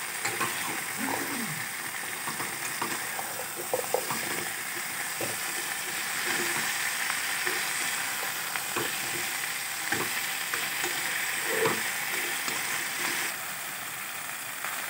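Pumpkin and potato cubes sizzling in oil and spice paste in a pan as they are stirred and tossed with a spatula, with scattered scrapes and knocks of the spatula against the pan. The sizzle eases slightly near the end.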